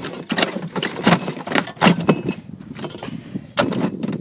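Irregular metal knocks and rattles from a mini fridge being struck and broken apart, about a dozen sharp hits with clattering between them.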